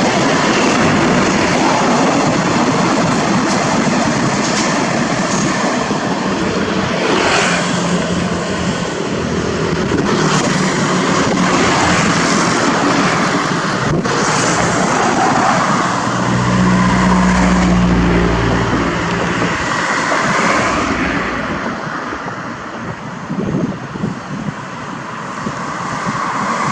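Train passing close by: a loud, steady rush of wheel and rail noise, with a deep engine drone swelling for a few seconds about two-thirds of the way through before the noise eases near the end.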